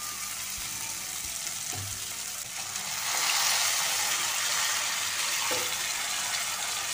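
Spice paste sizzling in oil in a non-stick kadai, with a few light spatula knocks. About two and a half seconds in, water is poured in from a jug and the sizzle swells into a louder hiss, then eases as the pan fills.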